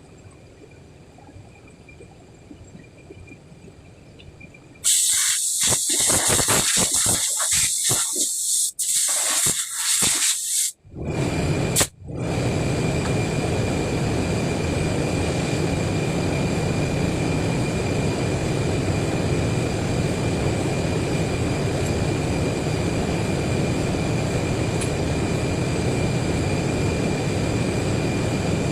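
A machine starts up: loud hissing that cuts in and out for several seconds, then a steady, even running noise with a faint high tone in it.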